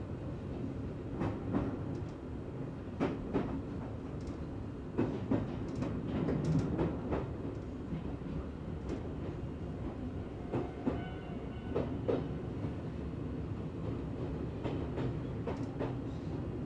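Izuhakone Railway Sunzu Line electric train running over points and rail joints: a steady low rumble with irregular wheel clacks, in several clusters.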